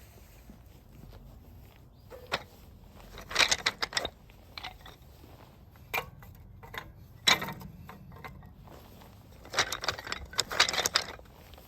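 Metal parts of a fire pit clinking and rattling as they are handled, in several short bursts.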